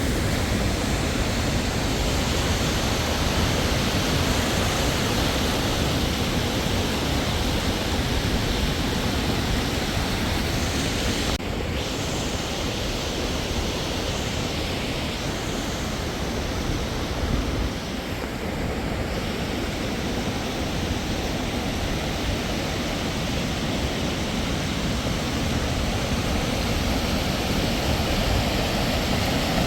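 Waterfall rushing steadily, an even roar of falling water with a slight drop in level about 11 seconds in.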